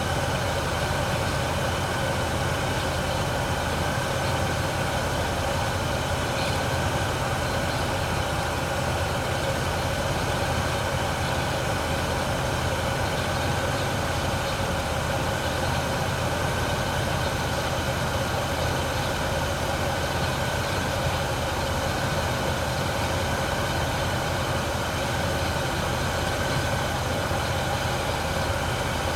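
An engine idling steadily at operating temperature, heard from the front of the engine. The owner suspects a misfire and asks whether the idle sounds like one.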